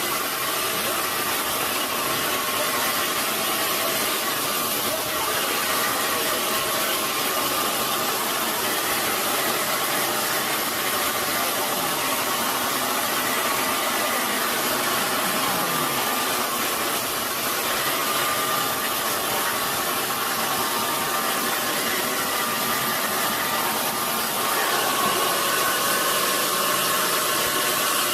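Sawmill machinery running steadily: a constant loud mechanical noise with a faint steady whine.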